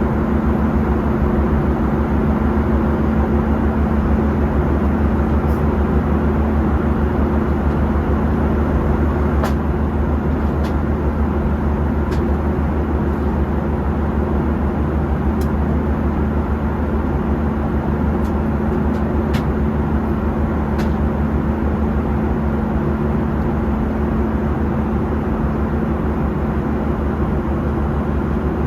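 Steady engine and airflow noise inside the cabin of a Boeing 737-800 in flight, a constant rush with a low hum under it. A few faint ticks come through in the middle.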